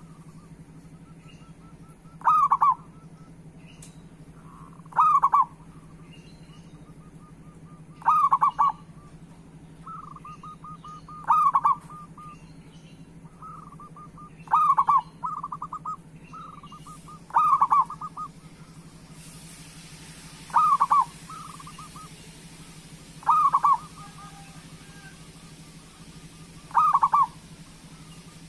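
Zebra dove (perkutut) cooing: a loud, short phrase repeated about every three seconds, with softer quick trilling notes between the phrases.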